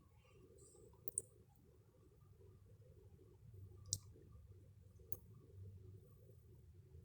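Near silence with three short, sharp clicks: about a second in, near the middle, and a second later.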